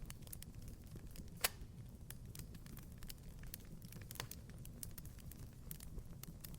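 Wood fire crackling in a fireplace: scattered small snaps over a low steady rumble, with one sharp pop about a second and a half in and a smaller one about four seconds in.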